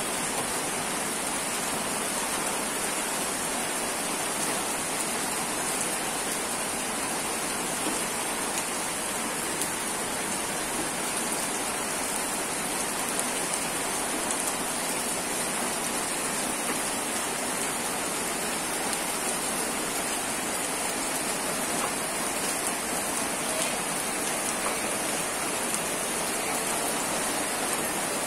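Steady rain falling on a wet concrete lane, trees and roofs, an even hiss that does not change.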